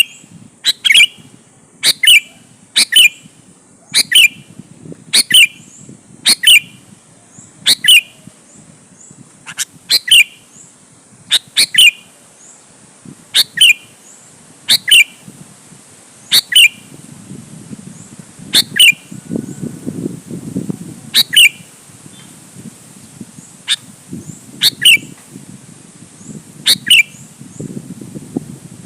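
Sooty-headed bulbul (kutilang) calling: short, sharp downward-sliding notes repeated about once a second, sometimes in quick pairs. A low rumble in the background grows in the second half.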